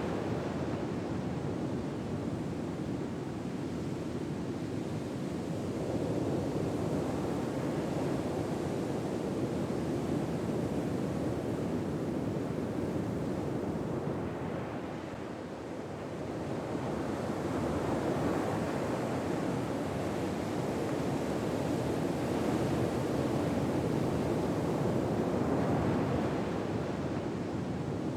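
Ocean waves washing on a shore: a steady rushing surf that slowly swells and eases every several seconds.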